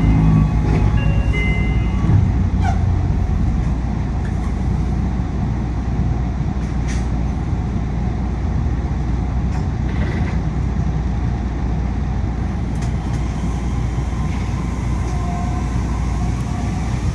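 Steady cabin noise inside a moving Yui Rail monorail car: a low rumble from the rubber-tyred running gear mixed with air-conditioning noise. A few short high tones sound in the first couple of seconds.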